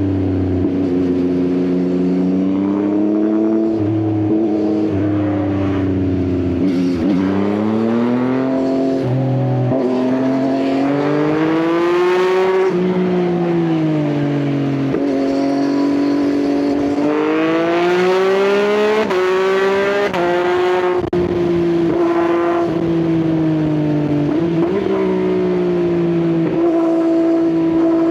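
Yamaha XSR900's three-cylinder engine through an Akrapovič exhaust, under way: the engine note climbs and drops several times as the bike accelerates, changes gear and eases off.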